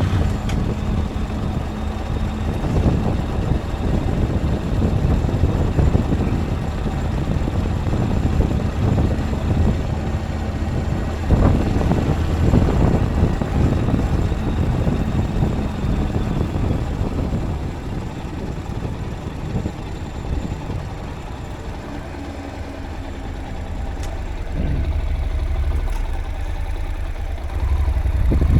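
A vehicle's engine running with a steady low rumble and road noise while driving. It gets quieter about two-thirds of the way through and louder again near the end.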